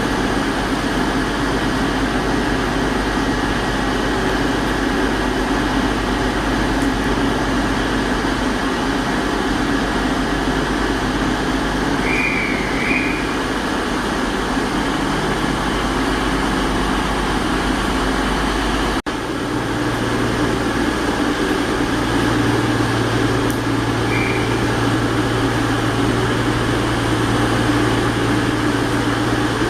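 Diesel train running steadily while standing at a station, a continuous engine drone with a held hum. The shot changes about two-thirds of the way through, after which a deeper hum is stronger.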